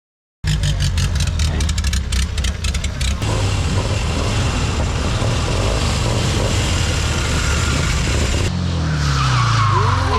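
Prewar racing car's engine running hard, with rapid crackling for the first few seconds over a steady low note; about eight and a half seconds in the engine note falls away as the car passes or slows.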